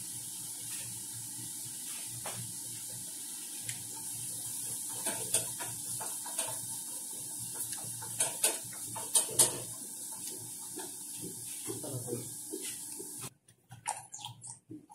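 Crunching and wet chewing of raw bell pepper, with a burst of crisp crunches around the middle, over a steady background hiss and hum that cuts off suddenly near the end.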